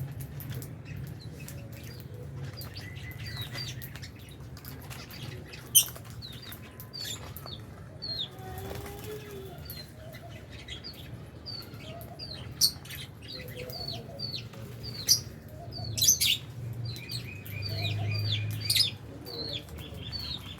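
An aviary flock of lovebirds chirping with many short, high calls, with wings flapping and a few sharp clicks. A steady low hum runs underneath.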